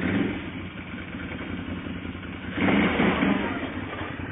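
Off-road vehicle engine running steadily, with a louder surge a little past halfway.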